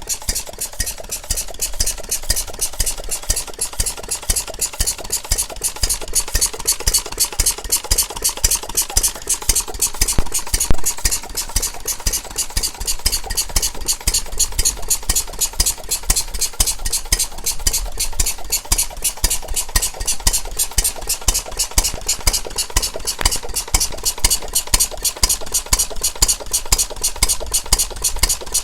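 Small Reco stationary gas engine, fitted with trembler-coil ignition, running steadily, with an even rhythmic beat of sharp exhaust knocks about four a second.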